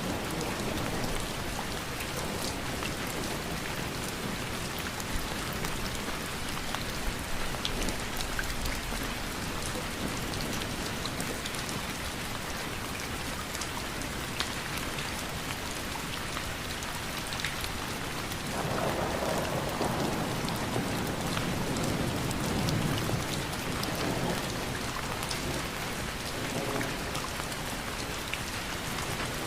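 Steady rain falling on a surface, a dense even hiss with scattered individual drops ticking. Past the middle a low rumble of thunder swells for several seconds, then fades.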